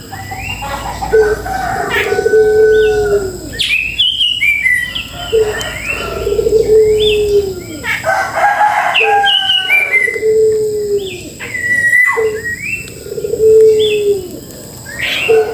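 Several birds calling at once. A drawn-out low note that drops at its end repeats about every two to three seconds, under many quick chirps and whistled slides higher up.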